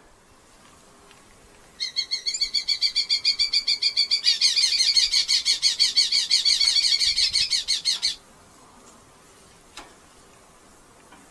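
Red-footed falcon calling in a rapid, shrill chattering series of about seven notes a second, starting about two seconds in, growing louder midway and stopping abruptly near the end.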